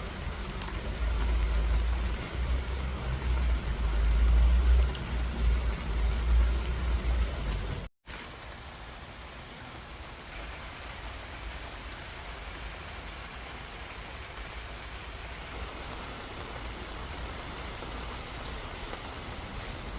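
Steady rain falling, an even hiss of drops on surfaces. For the first eight seconds a heavy low rumble lies under it, which ends at a brief dropout about eight seconds in; after that only the rain hiss goes on, a little quieter.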